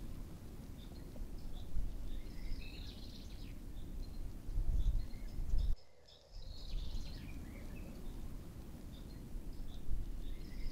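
Woodland ambience: a songbird sings a short chirping phrase three times, a few seconds apart, over a steady low rumble that drops out briefly about six seconds in.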